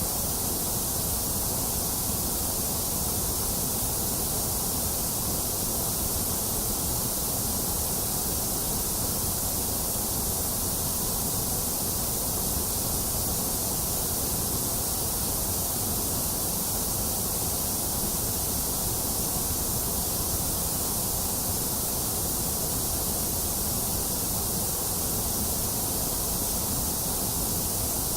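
Steady white noise: an even, unchanging hiss with no breaks or changes in level.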